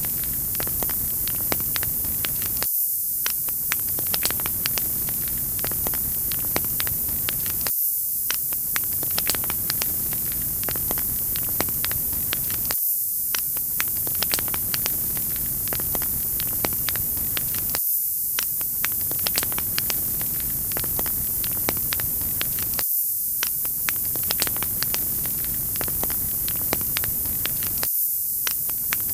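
Wood fire crackling: a steady hiss with many small sharp pops and snaps, from a short recording that loops about every five seconds.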